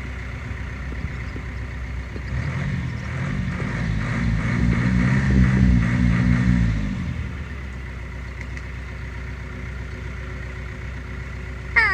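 Fire-damaged tractor's engine running, revving up about two seconds in and dropping back to idle around seven seconds. A brief sharp sound comes just before the end.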